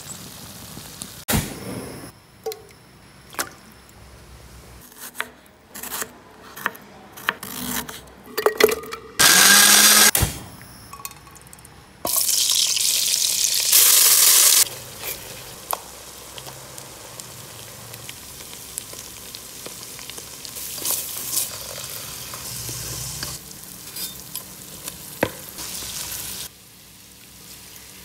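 Home kitchen cooking sounds: utensils clicking and knocking against cookware, then a loud burst of sizzling about twelve seconds in as a blended paste is poured into hot oil, settling into a steady frying hiss.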